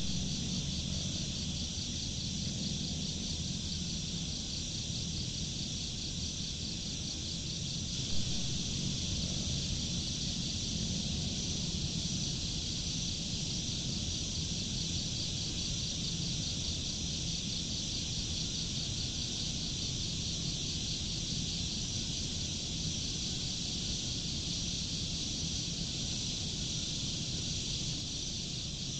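Crickets chirping steadily in a fast, even pulse, over a steady low rumble, with one brief soft knock about eight seconds in.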